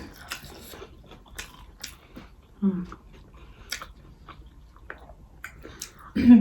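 A person chewing a mouthful of chicken roll, with many small wet mouth clicks and smacks.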